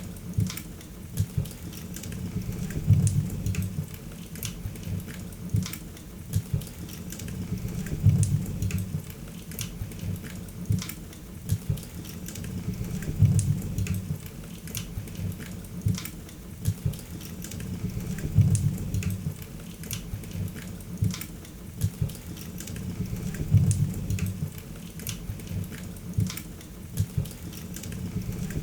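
Wood fire crackling in a fireplace, with frequent sharp pops and snaps over a low rumble of flames that swells about every five seconds.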